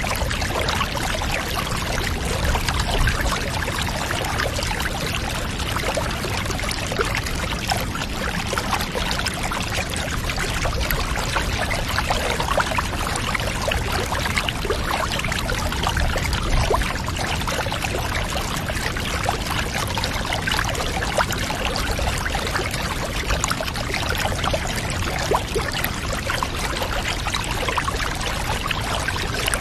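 Water pouring and trickling steadily, like a bath being filled, as an unbroken ambience with fine splashing crackle throughout.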